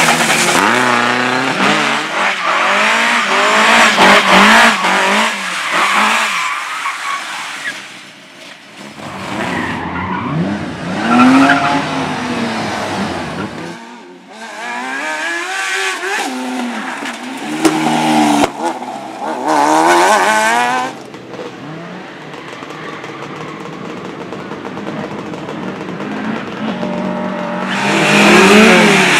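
Slalom racing cars driven hard through the cones, engines revving up and dropping off again and again with gear changes, and tyres squealing, in several short runs cut together.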